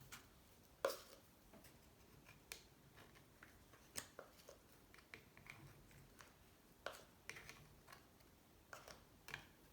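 Faint, scattered clicks and scrapes of a hand tool picking at sludge and corrosion deposits inside a Honda C70 engine case, the sharpest about a second in.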